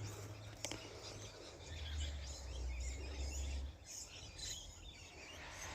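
Faint bird calls and chirps over outdoor background noise, with a low rumble that swells for about two seconds in the middle and a single click early on.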